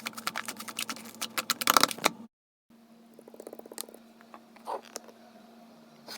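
Rapid light tapping and clicking, sped up to four times normal speed, over a faint steady hum. It cuts out abruptly for a moment after about two seconds, then resumes fainter and sparser.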